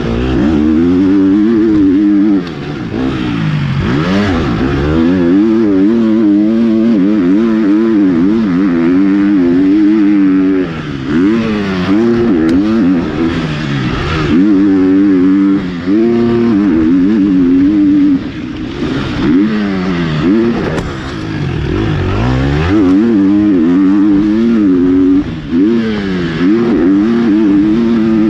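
Four-stroke single-cylinder motocross bike engine, a KTM 250 SX-F, revving hard as it is ridden around a dirt track. The pitch climbs and falls over and over through gear changes, with brief drops in level every few seconds as the throttle is rolled off.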